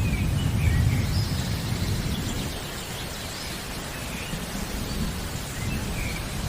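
Steady rain with a low thunder rumble that fades away over the first two seconds or so. Birds chirp and whistle in short up-and-down notes over the rain.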